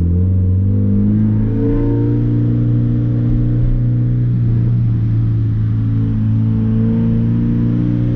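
Scion FR-S flat-four engine with its muffler and resonator deleted, running loud at fairly steady revs under light throttle while driving.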